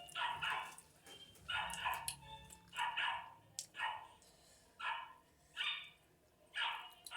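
Dog barking repeatedly, about once a second, in short sharp barks during a squabble between two dogs.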